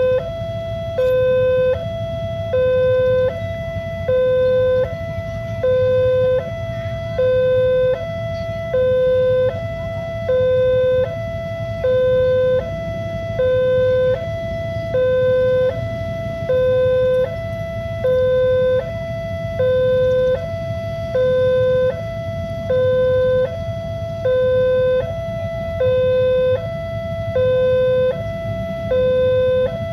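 Railroad level-crossing warning alarm sounding its electronic two-tone signal, a lower and a higher tone alternating about once a second, the sign that a train is approaching and the crossing is closed. A steady low rumble runs underneath.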